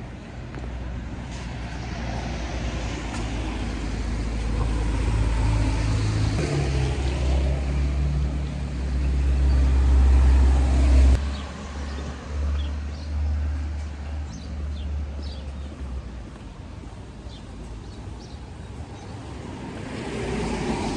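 A motor vehicle's engine rumbling close by, growing louder to a peak about halfway through and then dropping off suddenly, leaving a lower traffic noise.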